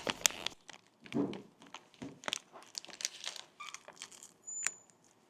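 Paper food wrapper being handled and crinkled, with irregular rustles and crackles.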